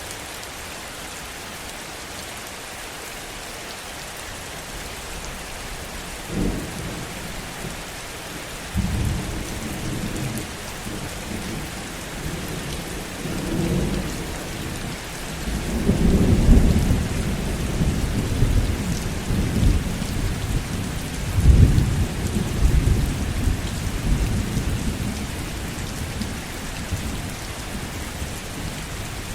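Heavy rain falling steadily, with thunder rumbling through it: a first sharp clap about six seconds in, then long rolling rumbles that are loudest around the middle and again a few seconds later, fading near the end.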